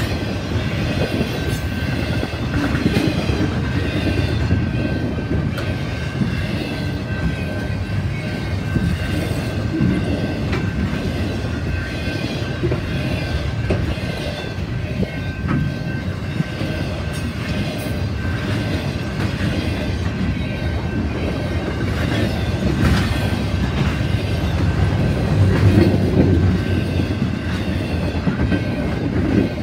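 Double-stack intermodal container well cars rolling past: a steady rumble of steel wheels on rail with clickety-clack from the wheels, scattered clicks, and a faint thin steady squeal above it.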